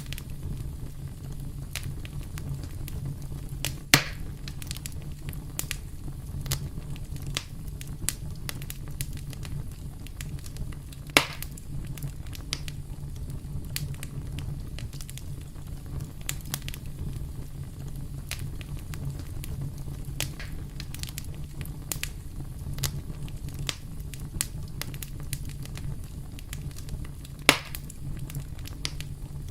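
Wood campfire burning, crackling all through with frequent small snaps and three louder pops, over a steady low rumble.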